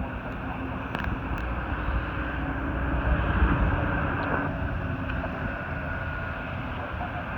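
Airbus A380's four jet engines passing low overhead on landing approach: a steady rumble with a faint whine, swelling to its loudest about three and a half seconds in and easing off after.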